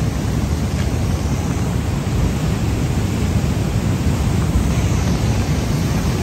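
Floodwater rushing in a swollen mountain river: a steady, loud noise, heaviest in the low end, with no breaks.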